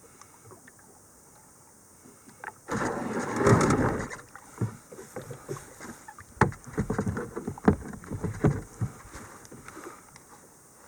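Kayak hull grinding onto the shore as it runs aground about three seconds in, followed by a run of knocks and scrapes against the hull.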